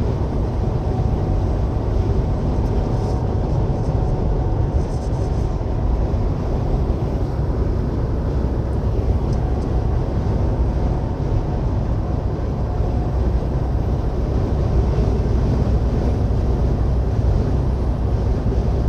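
Steady low drone of a semi truck at highway speed, heard inside the cab: engine and road noise.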